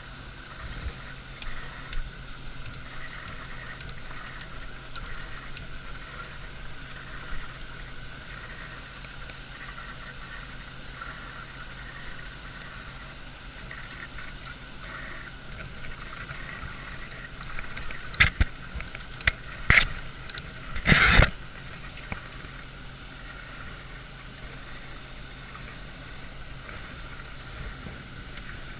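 A steady engine running at idle, with a cluster of sharp knocks about two-thirds of the way in.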